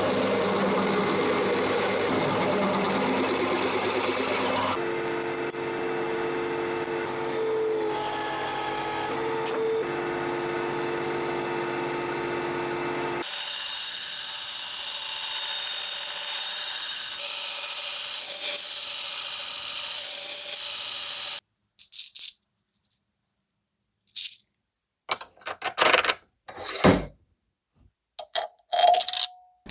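A workshop machine tool or power tool running steadily for about twenty seconds, its tone shifting twice, then cutting off suddenly. It is followed by a string of short metallic clicks and clinks from hand work on metal parts.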